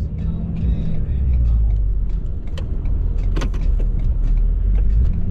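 Ford F-350's 6.7 Powerstroke V8 turbo-diesel running steadily while plowing snow, with a few sharp knocks about three seconds in.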